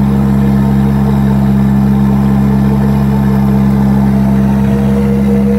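Off-road 4x4's engine running loud and steady at constant high revs, with its front wheel bogged in mud.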